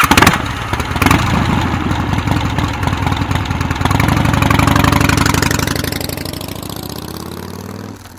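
Victory Vegas Jackpot motorcycle's V-twin engine running, its sound swelling louder around four to five seconds in and then fading steadily toward the end.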